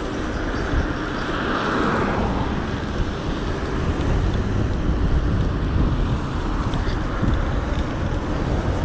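Wind rumbling on the microphone of a moving bicycle, mixed with road and traffic noise, with a swell of hissing noise about a second in.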